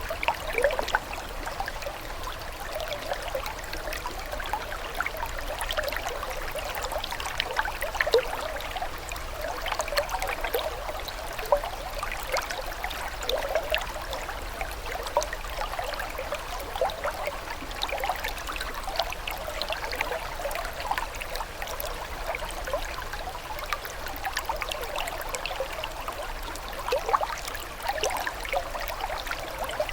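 Running water trickling and gurgling steadily, with many small splashes and bubbles.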